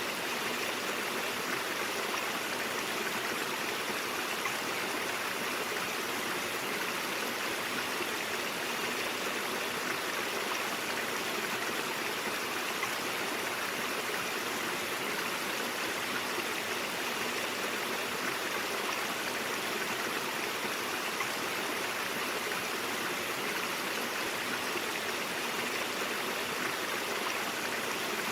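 A stream flowing over rocks, a steady, even rush of babbling water.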